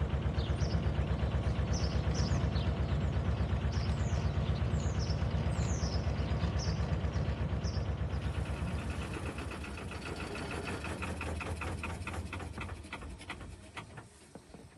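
A narrowboat's engine running with a steady, rapid chugging beat. It fades away near the end. Birds chirp over it in the first half.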